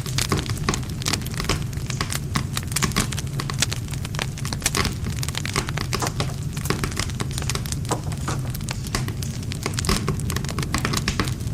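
Wood campfire crackling, with dense irregular snaps and pops over a steady low rumble of burning.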